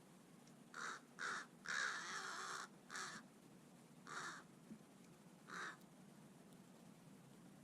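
Crow cawing six times in harsh calls, the third call drawn out to about a second and the loudest.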